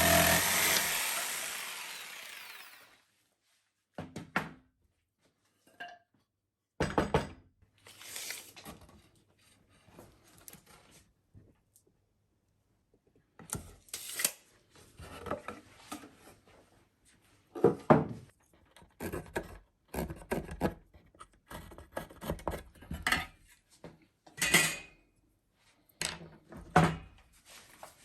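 A power tool winds down and stops in the first few seconds. Then wood is handled in a workshop: scattered knocks, taps and rubbing of wooden pieces.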